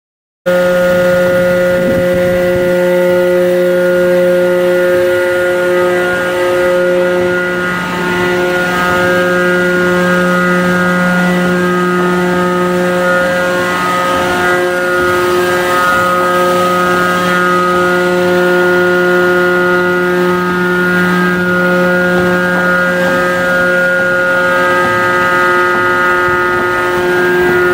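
Machinery running with a steady drone: one low pitch with many overtones, holding unchanged throughout, with a slight dip around eight seconds in.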